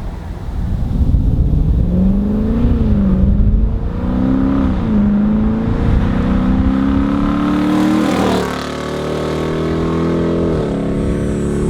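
Dodge Charger R/T's 5.7-litre Hemi V8 running through a stainless free-flow exhaust with H-pipe, resonators and J-pipes, under acceleration. The engine pitch rises and dips a couple of times, then climbs steadily. About eight seconds in it drops sharply at a gear change and settles lower, with another brief dip near the end.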